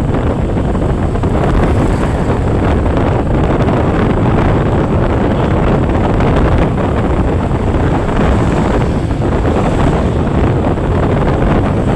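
Wind rushing hard over the microphone of a moving vehicle, steady and loud, with the vehicle's running noise underneath.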